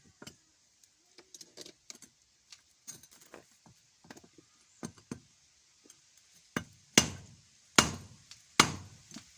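Blows knocking on a screwdriver set against the pinion gear of an RS550 motor, to drive the gear off the motor shaft. Light taps and metal clinks at first, then four hard blows in the last three seconds.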